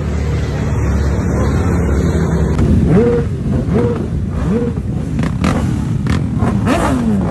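Motorcycle engines running with a steady low rumble; about three seconds in, a bike is revved in three quick blips, and near the end another rev rises and falls away.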